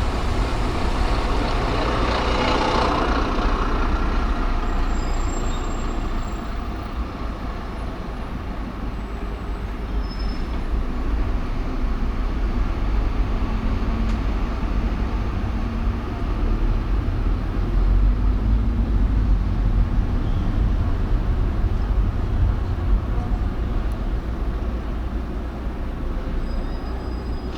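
City traffic and road noise heard from a moving car: a steady low rumble, with a brief louder hiss about two to three seconds in from a passing heavy vehicle.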